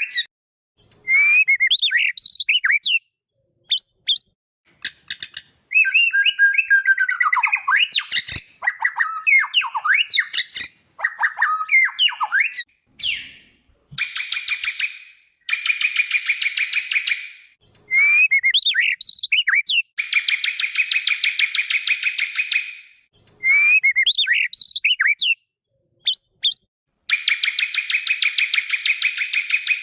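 White-rumped shama (murai batu) song: a run of varied whistled phrases with quick rising and falling notes, broken by short pauses. Three times it breaks into a long, rapid buzzy rattle lasting a couple of seconds.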